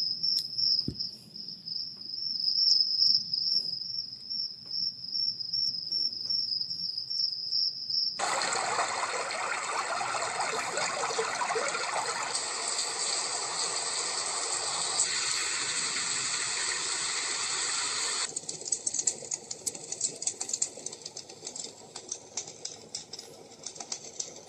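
Dreamegg Pocket Sleep 1 mini white noise machine playing its built-in sounds in turn. First comes a high, steady chirring like crickets. About eight seconds in it switches suddenly to a full, even hiss, and about ten seconds later to a thinner noise full of fine crackles.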